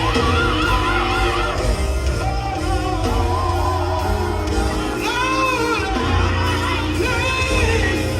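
Live gospel music: a singer wailing wordless runs with heavy vibrato over electric guitar and bass.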